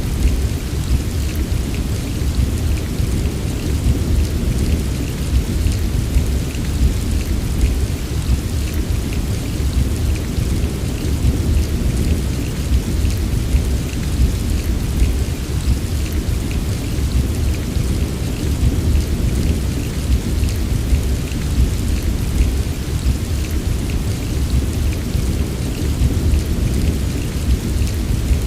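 Steady heavy rain with a continuous deep rumble underneath and a fine patter of drops on top, unbroken throughout.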